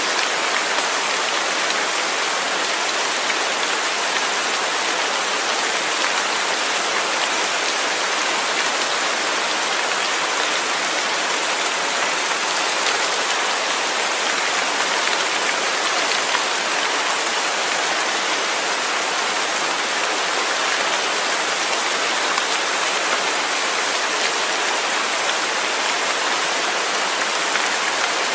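Steady, even rain falling, a dense hiss of drops with fine pattering.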